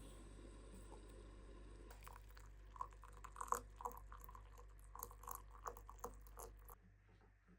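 Faint, irregular small crunches and clicks, starting about three seconds in, over a low steady hum that cuts off near the end.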